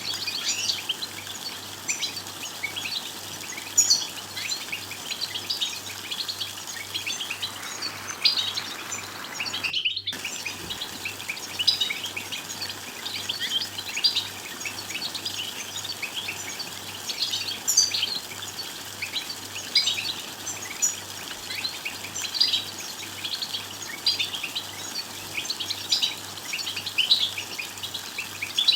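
European goldfinches twittering: a dense, continuous run of short, high chirps and trills from several birds. The sound cuts out for a moment about ten seconds in.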